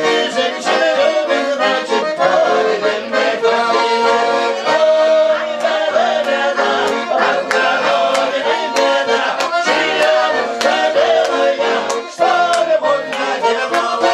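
Bayan (Russian button accordion) playing a lively instrumental interlude of melody over chords between sung chastushki verses, with a regular beat.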